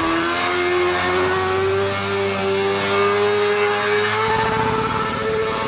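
Sportbike's inline-four engine held at high revs during a chainsaw burnout, its pitch climbing at first and then holding nearly steady.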